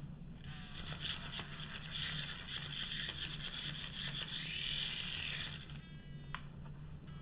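Broken toy helicopter's small electric motor buzzing and rattling for about five seconds, then stopping, with a sharp click shortly after.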